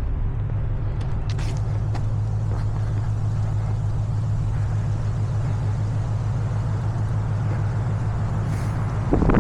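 A motor vehicle's engine running with a steady low hum, and a louder rush of sound just before the end.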